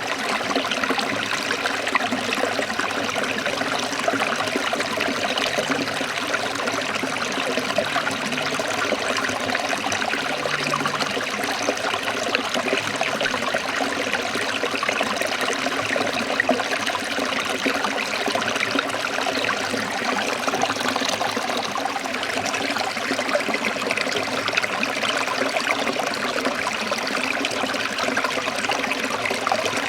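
A forest stream of water trickling steadily.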